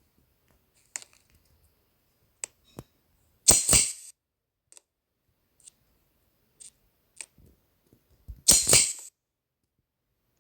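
Sharp clicks: a few light ones, and two louder double clacks about five seconds apart, with near silence between them.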